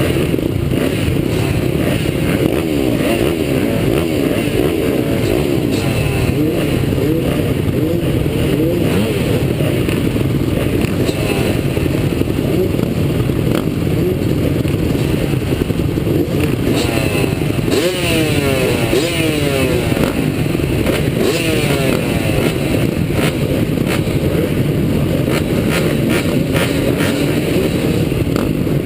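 Several motocross bikes running together on a dirt track, their engines revving up and down at once so that the rising and falling pitches cross one another. The revving is thickest a little past the middle.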